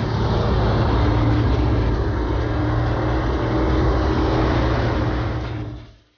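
Race car engine running loud and steady under power, with a deep low hum; it starts and cuts off abruptly.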